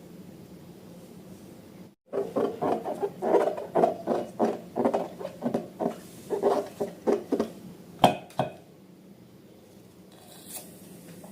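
Hand-handling sounds from slime making: a quick, irregular run of squelching, rubbing noises for about five seconds, then two sharp clicks about eight seconds in.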